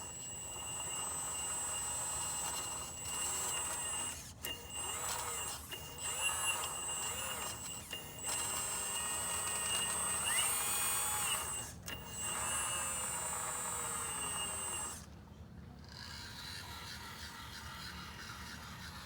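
Hydraulic pump motor of a MAGOM HRC 330D radio-controlled excavator whining, its pitch bending up and down as the hydraulics take load. It cuts out briefly a few times and runs quieter near the end.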